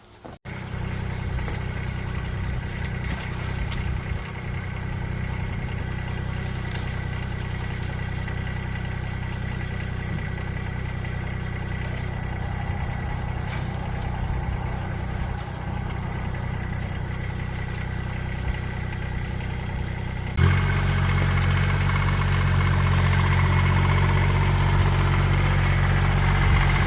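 An engine running steadily at a constant speed, with a faint steady whine above it. It gets abruptly louder about twenty seconds in and stays there.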